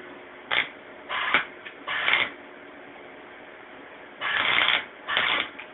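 Arc welder striking short bursts of welding on steel rod: five brief crackling bursts, each a third to half a second long, with pauses between, like a string of tack welds.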